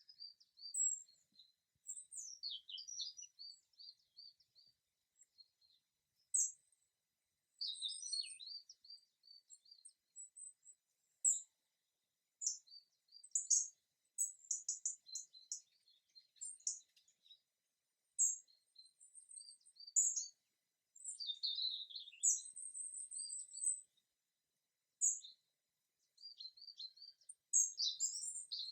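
Songbirds chirping and singing in short, high, quick phrases, separated by brief pauses, against an otherwise quiet background.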